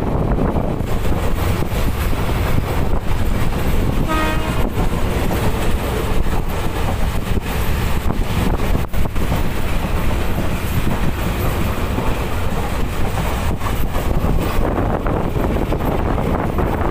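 Passenger train running at speed, heard from an open coach window: a steady rumble and rush of air with the wheels clicking over the rail joints. A short horn toot sounds about four seconds in.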